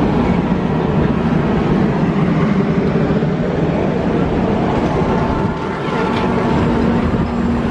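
Train running past with a loud, steady rumble. A steady low hum comes in about six seconds in.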